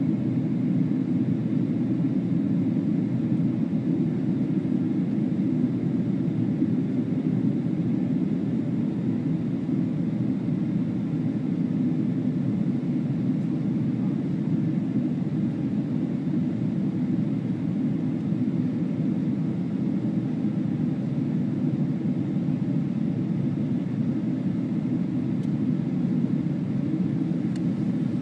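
Steady jet airliner cabin noise in flight: an even low rumble of engines and airflow heard from inside the cabin, without change.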